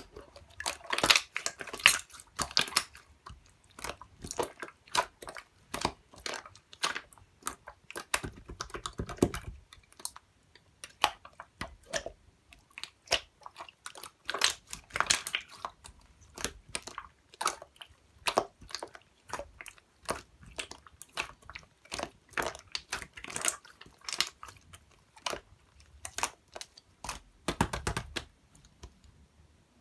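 Clear slime being squished and worked by hand, making a dense, irregular run of sticky clicks and crackles.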